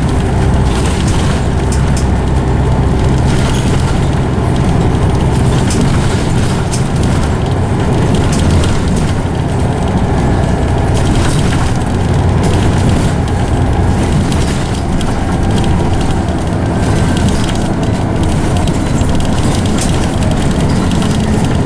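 Scania OmniCity CN94UB single-deck bus heard from inside on the move. A steady, loud low engine drone mixes with the whine of its ZF automatic gearbox.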